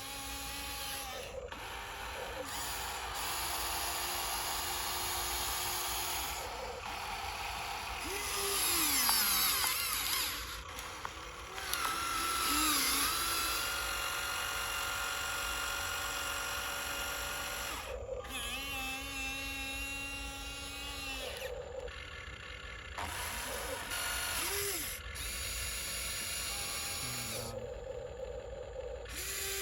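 Small electric motors of a radio-controlled dump truck whining in runs of a few seconds, the pitch sliding up and down as they speed up and slow down, with short breaks between runs.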